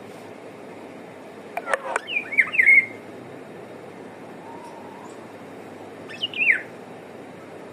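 Eurasian golden oriole calling: a quick burst of sharp sweeping notes and short warbles about a second and a half in, then a single falling note a little after six seconds, over a steady background hiss.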